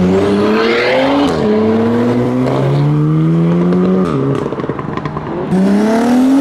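Car engines accelerating hard away through the gears: the engine note climbs, drops at each gear change (about a second in and again about four seconds in), and climbs again. Near the end another car's engine revs up and falls away.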